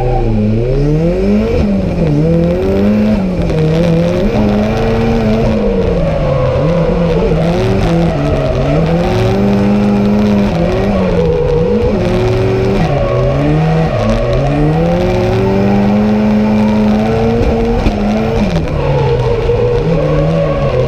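Drift car engine revving hard on track, its pitch swinging up and down every second or two as the throttle is worked through the drift.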